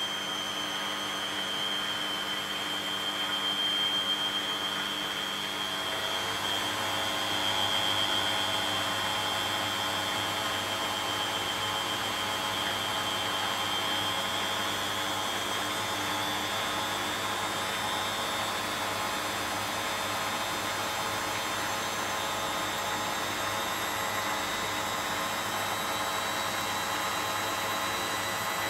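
Beko WTB740E1W front-loading washing machine on its spin cycle: the drum motor runs with a steady high whine over a hum, the whine creeping slowly higher as the drum picks up speed.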